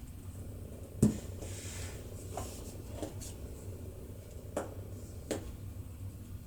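Craft materials handled on a tabletop: a sharp knock about a second in, a brief paper rustle, then several lighter taps and clicks.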